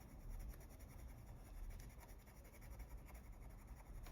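Faint scratching of a colored pencil shading lightly on paper.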